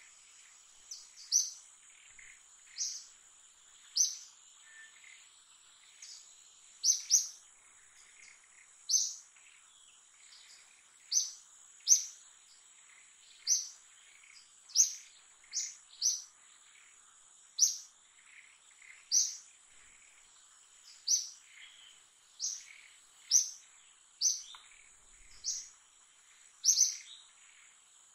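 A bird repeating a short, high chirp about every one to two seconds, over a steady high-pitched insect drone.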